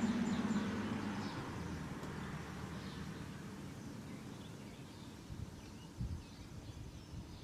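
A passing car's engine fading away into the distance, followed by faint bird chirps and a couple of soft low knocks.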